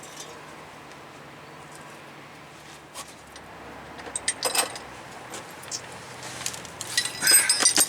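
Small metal parts being handled: scattered light clicks and clinks, as brake-line fittings and flaring-tool pieces are picked up, busiest near the end.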